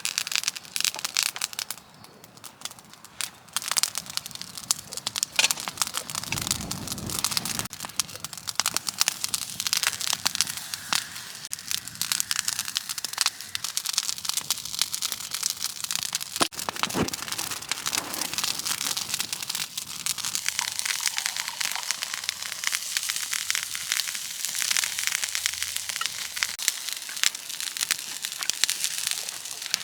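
Wood campfire crackling, with dense irregular pops and snaps that briefly die down about two seconds in.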